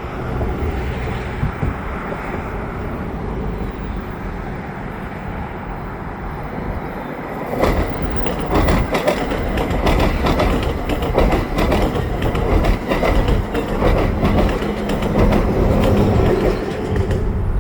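EXO commuter train of Bombardier multilevel coaches pushed by an ALP45DP locomotive, passing: a steady rumble that grows louder about seven seconds in, with rapid clickety-clack of wheels over the rails, easing off near the end.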